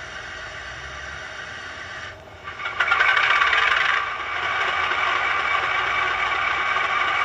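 Hornby Class 31 DCC sound decoder restarting its diesel engine sound through the model's small speaker. The engine starts almost three seconds in with no priming, loudest for about a second, then settles into a steady idle.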